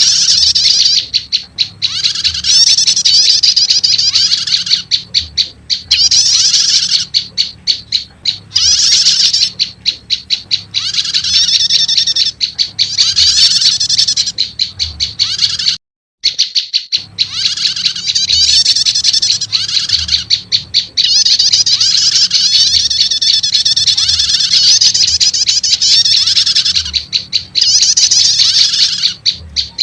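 Prenjak lumut calls combined with a prenjak starter recording, played as a bird lure: dense, rapid, high chirping and trilling with short gaps. The sound cuts out completely for about a second halfway through.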